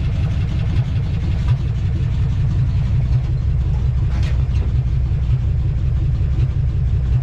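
The engine in a 1956 Chevy 150, running steadily at idle after a hard start. Its valves need adjusting, which the owner says can be heard in the running.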